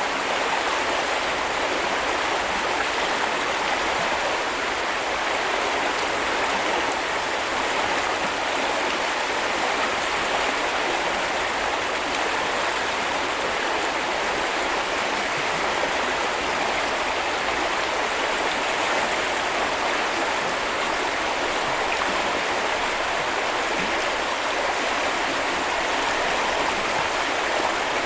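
A small river or stream flowing over rocks: a steady, even rush of running water.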